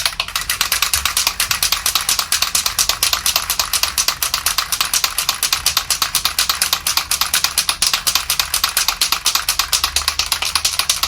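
Aerosol spray paint can being shaken hard, its mixing ball rattling in a rapid, steady rhythm to mix the silver paint before spraying.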